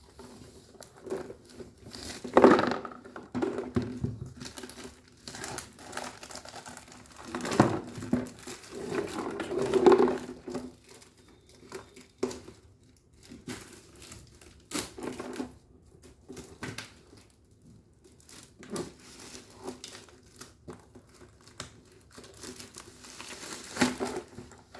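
Packaging on a toy kit box being crinkled and torn as it is unwrapped by hand, in irregular scratchy bursts with a few louder rips.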